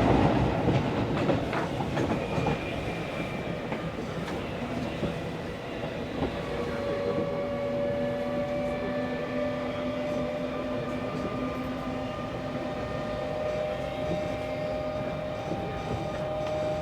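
Tokyo Metro 16000-series subway car running, heard from inside the passenger cabin: a steady rumble of wheels on rail. About six seconds in, a steady whine of several tones from the VVVF inverter and traction motors sets in and holds.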